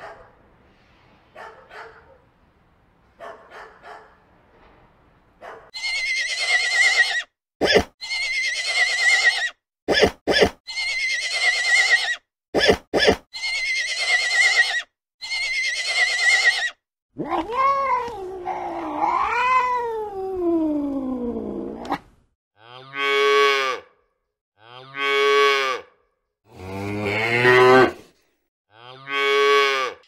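A run of different animal calls, one after another. First come faint short calls, then a stretch of noisy rasping bursts broken by a few sharp clicks. After that comes one long call that rises and falls in pitch, then three shorter pitched calls.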